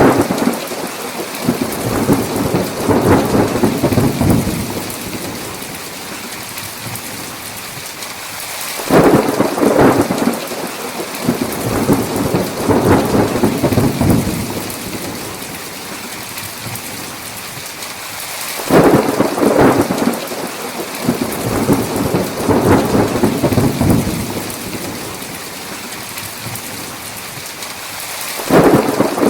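Thunderstorm: heavy rain falling steadily, with thunder cracking and rolling three times, about every ten seconds. Each peal starts suddenly and rumbles away over several seconds.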